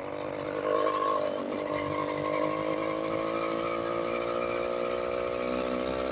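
Motorized bicycle's small engine running at a steady speed while riding.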